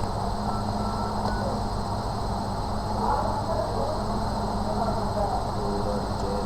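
Steady background hum and noise, with faint voices talking in the background.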